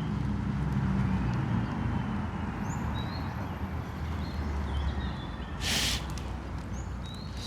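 Outdoor park ambience: short, faint bird chirps every second or so over a steady low background rumble, with a brief rustling burst about six seconds in.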